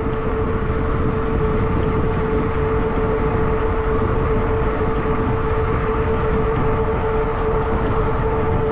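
Zota Zephyr fat-tire e-bike riding along a road: wind rushing over the microphone, with a steady whine from the bike's motor and fat tyres.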